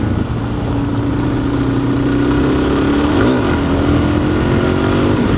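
Dual-sport motorcycle engine running at a steady cruise, its pitch drifting slightly lower, with wind noise on the microphone.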